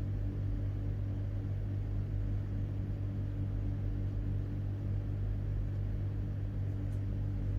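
A steady low hum from a motor or electrical source, unchanging in pitch and level.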